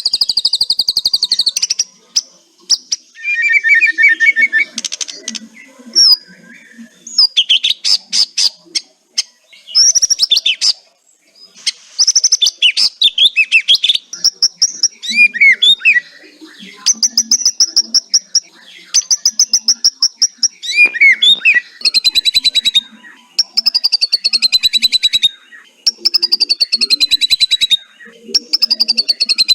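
White-rumped shama (murai batu) singing a long run of fast rattling trills and chattering phrases mixed with a few clear whistles: the 'kretekan' rattle used as bait song to provoke other shamas into singing. Near the end come several fast trills that each fall in pitch.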